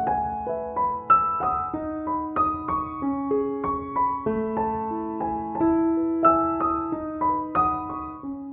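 Background piano music: a gentle melody of single struck notes, several a second.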